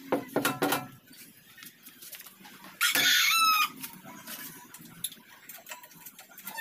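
Rooster crowing once, about three seconds in, a single call just under a second long. A quick run of sharp knocks comes in the first second.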